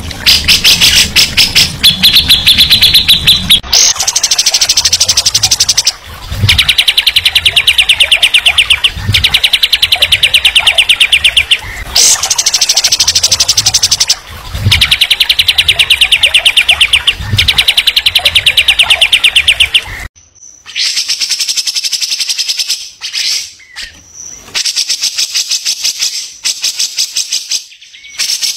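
A songbird singing loud, very rapid trills in phrases of about two to three seconds with short breaks between them, some phrases lower and some higher in pitch.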